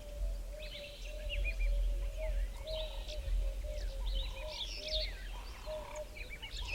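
Several wild birds calling and singing at once, in overlapping chirps and quick whistled notes. A steady, slightly wavering low tone and a low rumble run beneath them.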